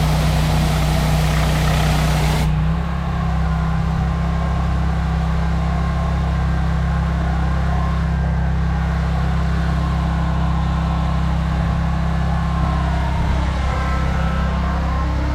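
Pressure washer engine running steadily with the high-pressure spray hissing. The spray cuts off sharply a couple of seconds in, and the engine keeps running.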